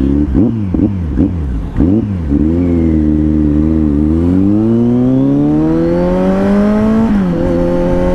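Kawasaki Z900's inline-four engine through an aftermarket Akrapovič-copy exhaust. It gives several quick throttle blips in the first two seconds, then a long rising rev as the bike accelerates. About seven seconds in the pitch drops briefly at an upshift, then rises again.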